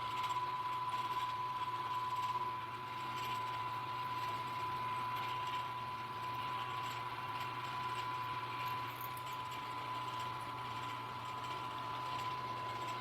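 Milling machine's spindle motor running at a steady speed with a steady high whine and a low hum, while a number 7 drill bores a set screw hole in a collar.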